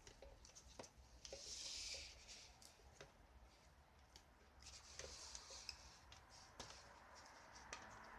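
Faint handwork on small parts: scattered light clicks and rubbing, with a brief hiss about one and a half seconds in.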